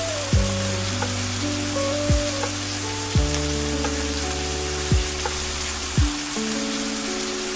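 Steady rain hiss under slow ambient music of long held notes, with five deep, soft thuds that drop in pitch, about one to two seconds apart.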